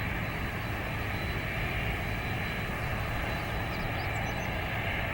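Airbus A320-211 jet airliner's engines running steadily: an even rumble with a thin, steady high-pitched tone over it.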